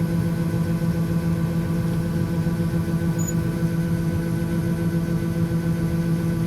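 Farm machinery running steadily, a constant hum at one unchanging pitch.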